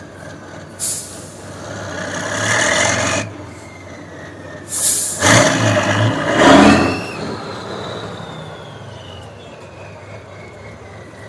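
Competition trial truck's diesel engine revving hard in two surges, the second and louder one about five seconds in, with sharp hisses of air. A faint whine falls slowly in pitch as it settles.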